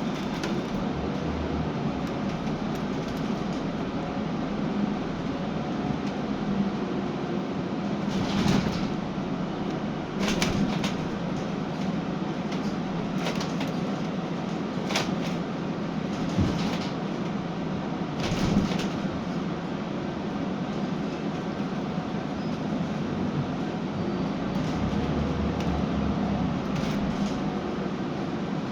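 Scania K320UB diesel bus under way, heard from inside: a steady engine and road drone, with short sharp rattles and knocks from the body every few seconds.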